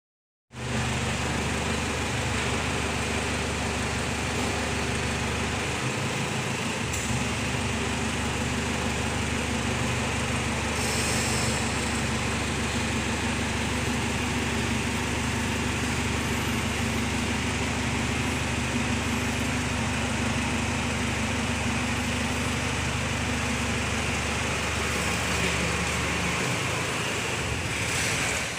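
Generator set's engine running steadily, with a brief dip in its low hum about six seconds in.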